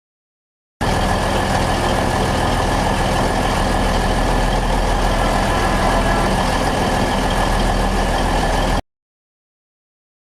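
Twin-engine diesel-hydraulic locomotive running steadily: a low engine drone with a steady high whine above it. It cuts in abruptly just under a second in and cuts off abruptly near the end, with dead silence either side.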